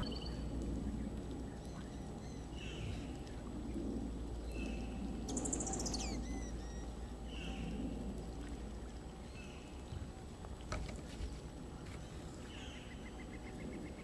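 Several wetland birds calling and singing: short high calls repeated every second or two, one high song falling in pitch about five seconds in, and a rapid trill near the end, over a steady low rumble.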